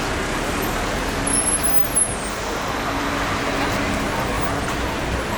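Street traffic noise: a steady wash of passing vehicles, with a brief high-pitched squeak between one and two seconds in.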